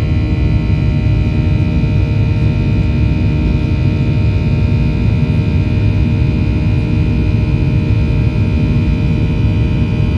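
Boeing 737-800's CFM56 jet engines running at steady power, heard inside the cabin as a low rumble with a steady whine on top.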